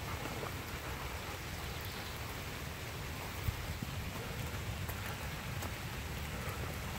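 Steady rain falling on forest foliage, with a few faint clicks.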